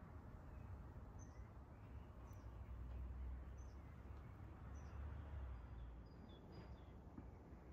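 Faint songbird chirps: short, high notes about once every second, with a few lower notes near the end, over a low steady outdoor rumble.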